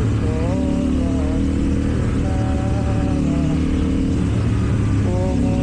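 KTM Duke 790 parallel-twin engine with Akrapovič exhaust under riding load, its revs rising and falling several times. The pitch climbs early on, holds steady in the middle, dips, then climbs again near the end.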